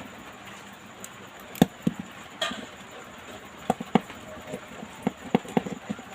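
Irregular sharp clicks and light taps of small repair tools against phone parts on a workbench, about eight in all, with a short scrape about two and a half seconds in, as a smartphone is taken apart to replace its display.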